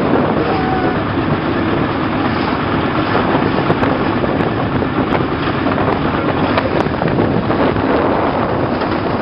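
Motorboat's diesel engine running steadily, with wind buffeting the microphone.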